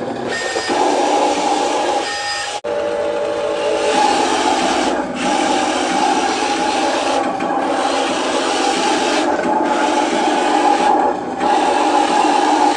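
Radio-controlled toy truck running: a steady, raspy whine of its small electric motor and plastic gearing, with a brief break about two and a half seconds in.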